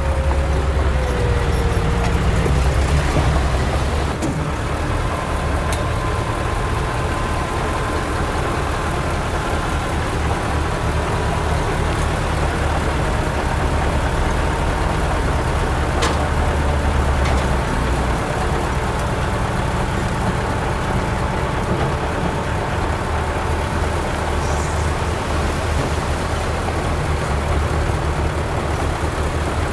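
Heavy diesel earthmoving machinery running steadily under load, with a deep rumble and a thin steady whine, and a few sharp metallic knocks.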